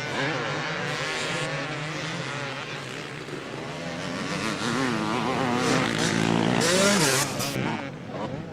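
Motocross bikes racing, several engines revving up and falling back as they accelerate and shift. The sound grows louder to a peak about seven seconds in.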